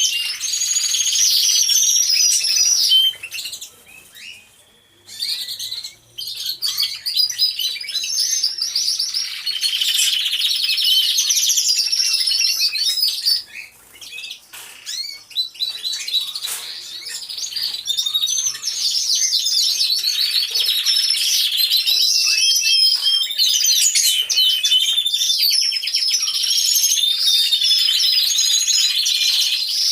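Many canaries singing together in an aviary, a dense chorus of rapid trills and warbling phrases, with two brief lulls, about four seconds in and about fourteen seconds in.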